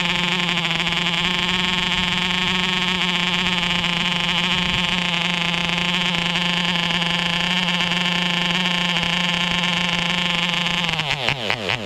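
MARZ (MAP3) 2.5 cc two-stroke model-airplane diesel engine running at a steady high pitch. Near the end its pitch drops quickly and it breaks into separate firing pops as it slows and dies. These are its first runs, with the counter-piston stuck in an over-compressed position.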